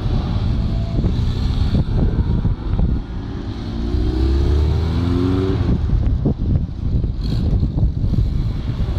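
Fiat X1/9 sports cars driving past one after another. About four seconds in, one accelerates, its four-cylinder engine rising in pitch, then stops abruptly as the driver lifts off. Low wind rumble on the microphone sits under it all.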